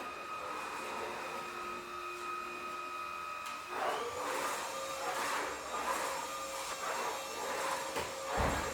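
Vacuum cleaner motor running with a steady whine. About four seconds in its pitch shifts and a rhythmic swishing comes in, about once every 0.7 s.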